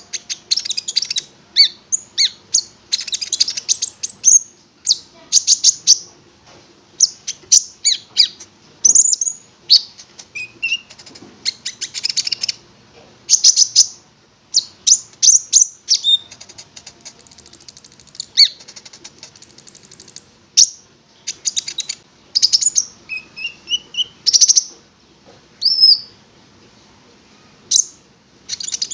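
A konin songbird singing energetically in fast, varied high-pitched phrases: rapid chattering chips, short falling whistles and thin trills, broken by brief pauses.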